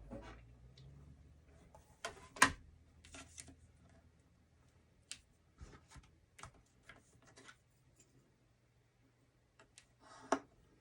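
Cardstock and a scoring tool being handled on a scoring board: scattered light taps and clicks, the loudest about two and a half seconds in.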